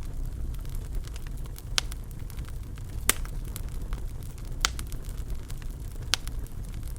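Wood fire burning in a fireplace: a steady low rumble of flames with scattered crackles and four sharp pops from the burning logs.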